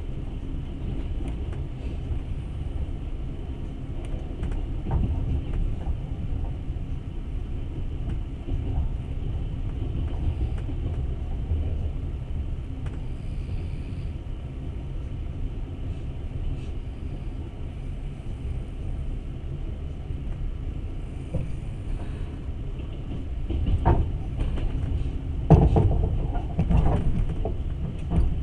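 Passenger train running on the rails, heard from inside the carriage as a steady low rumble. Several louder knocks and clatter come near the end.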